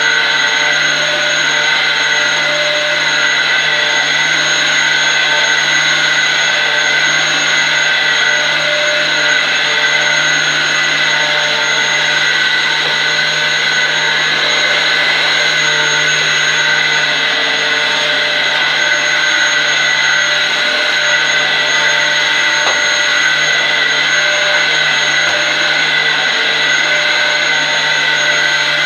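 Dyson DC07 upright vacuum cleaner running steadily: a high motor whine over a low hum.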